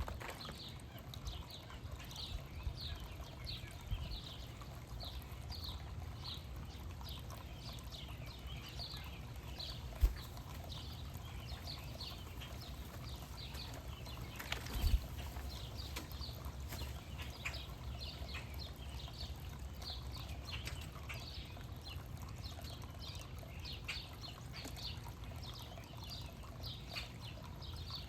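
Backyard bird chirping over and over, short high falling notes at about two a second, over a steady low rumble. A thump about ten seconds in and another about fifteen seconds in.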